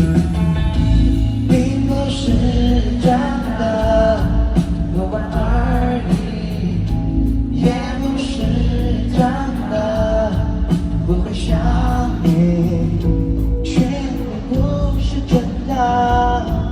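Live band music played through a stadium PA: steady bass and drums under a melodic line that comes in repeated phrases of about two seconds, with singing-like rises and falls.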